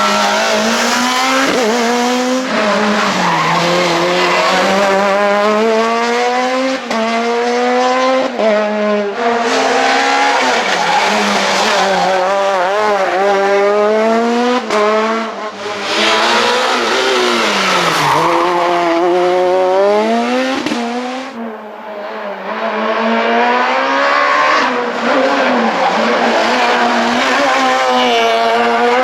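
Super 2000 rally car's two-litre four-cylinder engine at full throttle, its pitch climbing through the gears with sharp drops at each shift. It eases off briefly several times and lifts off more deeply a little past two-thirds of the way through before pulling hard again.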